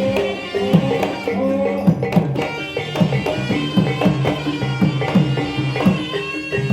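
Javanese gamelan music accompanying an ebeg horse dance: kendang hand-drum strokes in a quick, steady rhythm over held notes from tuned percussion.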